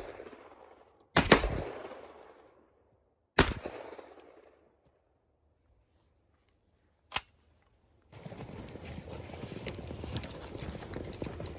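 Two shotgun shots about two seconds apart, each with a long fading echo, then a single short sharp crack. From about eight seconds in, a steady crackling rustle takes over.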